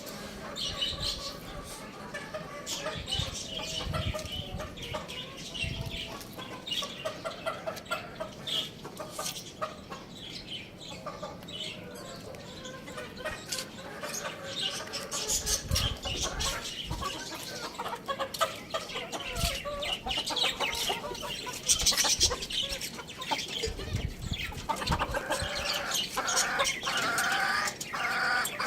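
Chickens clucking and calling, many short calls overlapping throughout, with a few dull knocks.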